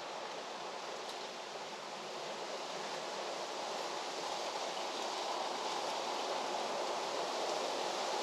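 A steady outdoor rushing noise, slowly growing louder, with no distinct events in it.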